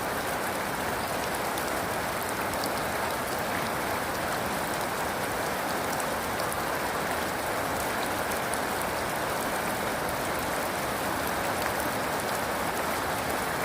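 Steady heavy rain falling on a surface: an even hiss of rain with scattered individual drop ticks, at a constant level throughout.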